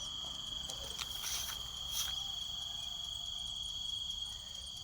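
Crickets trilling: one steady, unbroken high-pitched trill, with a few faint clicks and short chirps about one and two seconds in.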